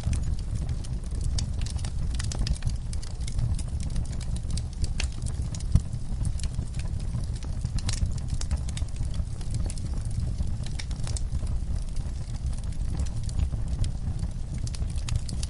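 Wood fire burning in a fireplace, crackling with frequent sharp, irregular pops over a low steady rumble, with one louder pop about a third of the way through.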